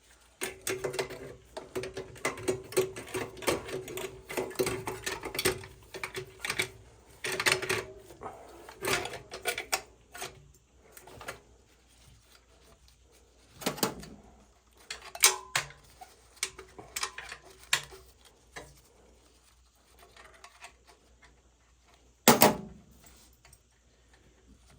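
Clicks, scrapes and knocks of metal parts as an oil burner's nozzle-and-electrode assembly is slid back into the burner and fastened, busiest in the first ten seconds, with one sharp, loud knock near the end.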